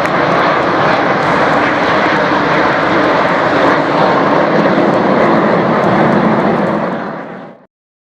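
Aircraft engines of a fly-past at an air show: a loud, steady rushing that fades about seven seconds in and then cuts off suddenly.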